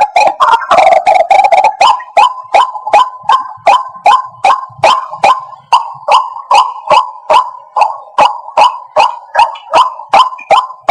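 White-breasted waterhen calling over and over: a dense, overlapping run of calls that about two seconds in settles into a steady rhythm of short, sharp kwak notes at about two and a half a second.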